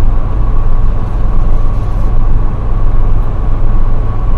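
Semi truck's diesel engine running with a steady low hum, heard inside the cab.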